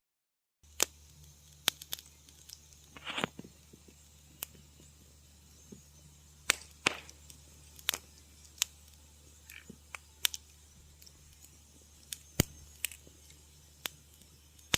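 Wood fire crackling in a fireplace: irregular sharp pops and snaps, a couple of them with a short hiss, over a faint steady low hum. The sound cuts out completely for about half a second at the start.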